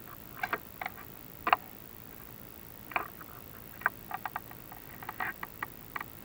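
Irregular light clicks and knocks of a chimney inspection camera and its rods bumping against the clay flue tile as it is worked up the flue, about fifteen taps spread unevenly, a few in quick clusters.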